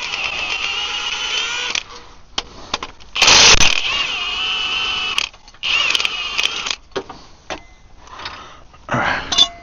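Cordless power tool whining in three short runs, undoing the 18 mm bolts on the bottom of the gearbox during a clutch job, followed by a few light metallic clicks and knocks.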